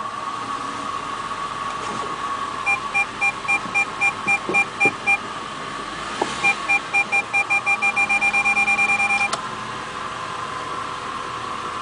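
Audi A8 parking-sensor warning beeping. It starts about three seconds in at roughly four beeps a second, pauses, then resumes faster and merges into a solid tone that cuts off suddenly. The warning is heard over the steady hum of the running car.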